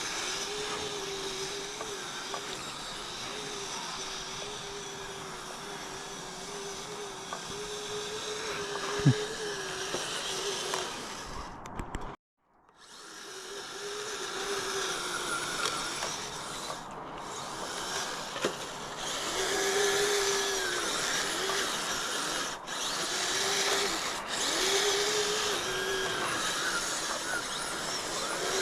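Kyosho Blizzard RC tracked vehicle driving on its dual Traxxas 380 brushed electric motors: a steady motor whine that wavers and rises and falls with the throttle, over the rattle of the metal tracks. The sound drops out completely for about half a second about 12 seconds in.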